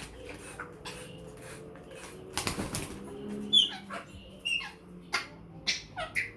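African grey parrot flapping its wings in one brief burst, then giving several short whistles and squawks that slide quickly in pitch.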